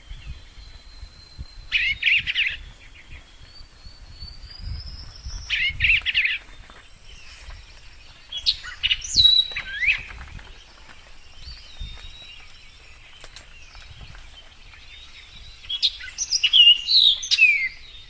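Wild birds calling: quick trilled bursts about two seconds and six seconds in, sharp sweeping whistles around nine to ten seconds in, and a busier run of calls near the end, over a low rumble.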